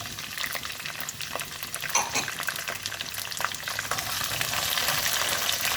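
Small onions and whole garlic cloves sizzling in hot gingelly (sesame) oil in a pan while being stirred, the utensil clicking against the pan now and then. The sizzle grows louder about four seconds in.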